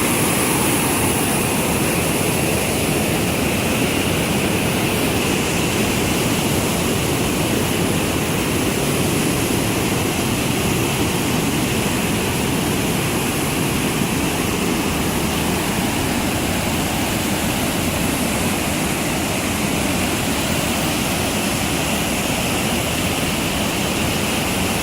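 Rapids on the Stanislaus River rushing in a steady, loud wash of white water, the river running high with snowmelt.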